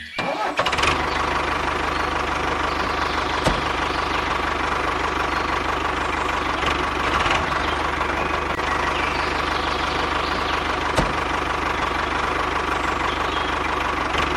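A small motor starts about half a second in and runs steadily, with a fast, even rattle.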